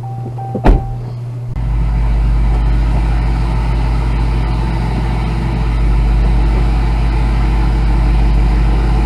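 A single sharp thump about 0.7 s in, and a steady chime tone that stops just after it. Then, about a second and a half in, a car's engine comes up into a loud, steady low rumble under load as the stuck car is driven to try to get free.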